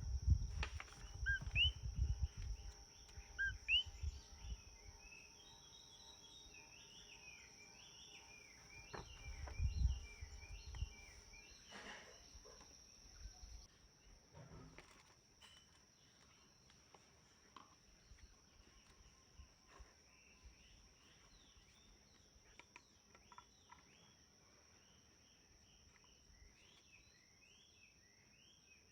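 Small birds chirping with short repeated calls, over a steady high insect drone. A low rumble with a few knocks fills the first ten seconds or so, then fades.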